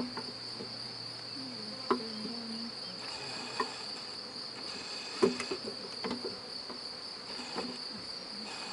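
A steady, high-pitched trill of insects like crickets, with several sharp knocks and clicks as wooden hive frames and boxes are handled. Short low buzzes of honeybees flying close by come in here and there.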